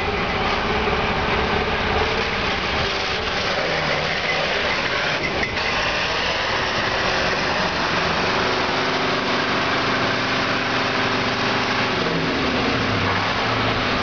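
Ural-4320 6x6 truck's diesel engine running steadily through rough off-road going, with a brief knock about five seconds in and the engine note dropping, then settling higher, after about twelve seconds.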